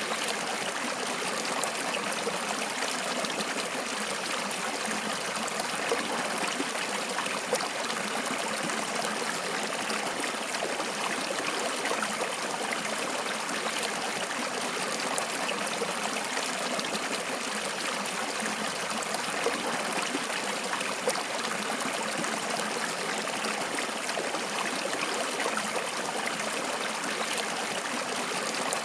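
A small stream of water flowing and trickling, a steady splashing rush with small irregular splashes now and then.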